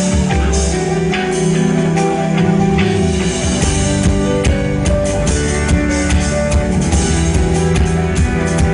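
Live pop band music played loud over a PA: drum kit keeping a steady beat under guitar and sustained keyboard-like notes, with little or no singing.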